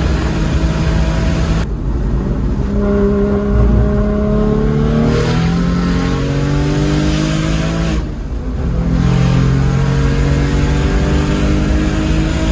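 Single-turbo BMW S55 straight-six heard from inside the M4's cabin at track speed, revving with its pitch climbing in long sweeps. It eases off briefly about two seconds in and again about eight seconds in, then pulls back up.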